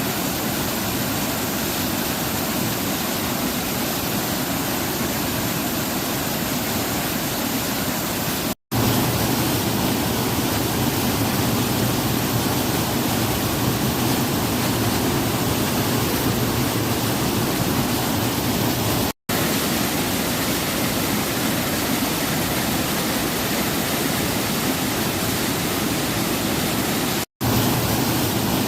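Waterfall rushing: a loud, steady roar of falling water that cuts out for a split second three times where the clips are joined.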